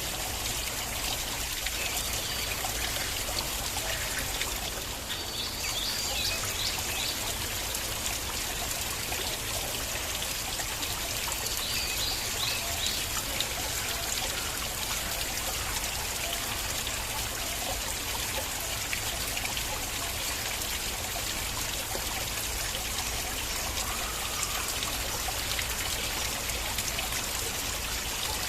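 Small stream of water flowing and trickling steadily.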